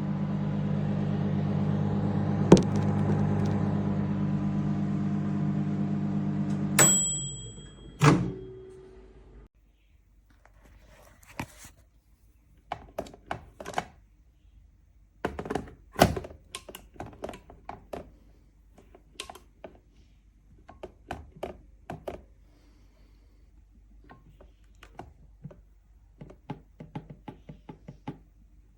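Russell Hobbs RHMM715 700W manual microwave running with a steady low hum. About seven seconds in its timer bell dings as it stops, and a loud thunk follows. Scattered light clicks and knocks come after.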